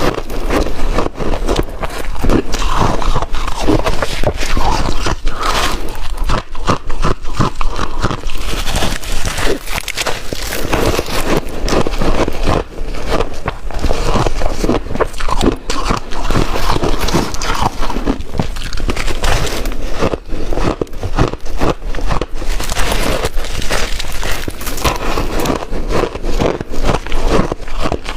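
A person biting and chewing water-dipped shaved ice: a dense, continuous run of crunches and crackles.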